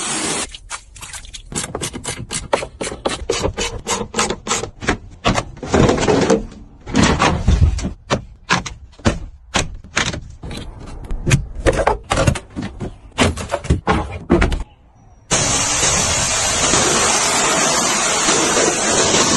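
Car being washed: a steady spray hiss breaks into a long run of short, uneven strokes and bursts, goes almost quiet for a moment, then the steady hiss of spraying water comes back for the last few seconds.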